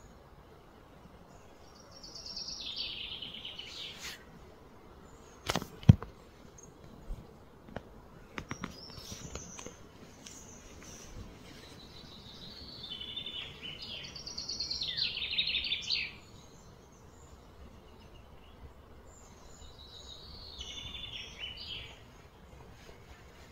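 A songbird singing three phrases of rapid, trilling notes, a few seconds apart. About six seconds in there is a single sharp knock, the loudest sound here, with a few lighter clicks after it.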